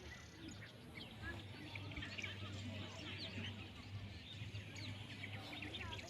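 Many birds chirping and calling at once, a dense chorus of short high chirps, faint, over a low steady hum.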